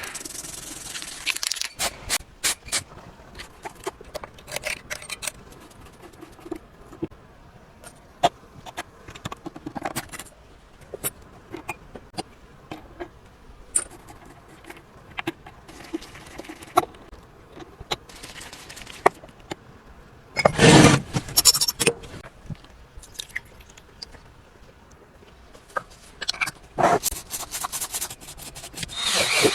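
Small metal parts being handled at a workbench: scattered clicks, taps and short scrapes, with one louder rasping scrape lasting about a second and a half about two-thirds of the way through.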